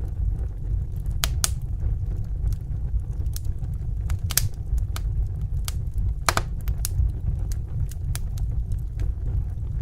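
Wood fire crackling in a fireplace: irregular sharp pops and snaps over a steady low rumble of burning, the loudest pop about six seconds in.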